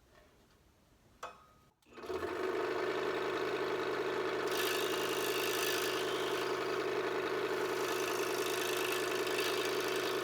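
A scroll saw starts up about two seconds in after a click and runs steadily with a reciprocating buzz. From about halfway a hiss joins it as the blade cuts into thin Baltic birch plywood, trimming the ornament's slots.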